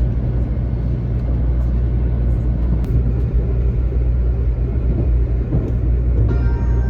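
Steady low rumble of a Shinkansen bullet train running, heard from inside the passenger cabin. Music comes in near the end.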